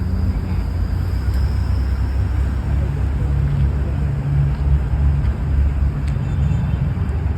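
Car engine running with a low, steady exhaust note that swells slightly about four to five seconds in.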